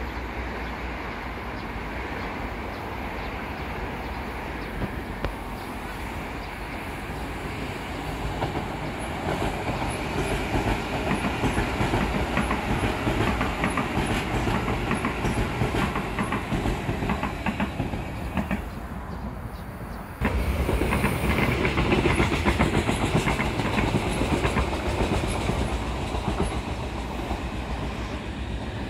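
Passenger trains passing on the track: wheels rumbling on the rails with a clickety-clack, first a KTX-Eum electric train swelling as it goes by. About twenty seconds in the sound jumps abruptly louder as a second train passes.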